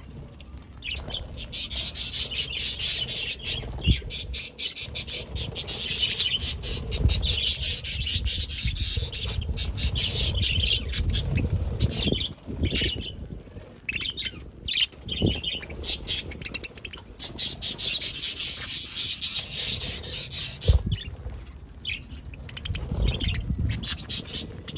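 A flock of budgerigars chattering and chirping continuously in rapid, high twittering, with short pauses, over low thumps and wing flutters.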